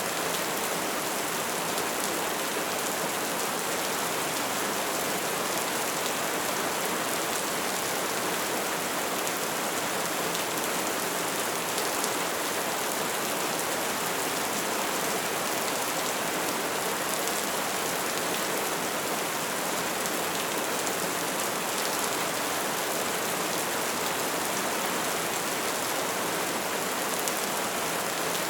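Bonfire burning with a steady hiss and dense small crackles, a few sharper pops scattered through.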